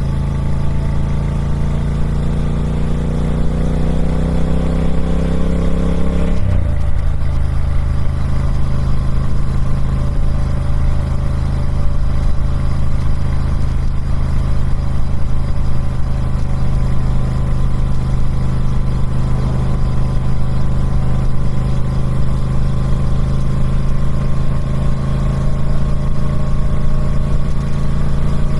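Triumph Speed Twin 1200's parallel-twin engine through its stock exhaust, pulling with slowly rising pitch for about six seconds. It then drops sharply in pitch and runs on at a steady pitch.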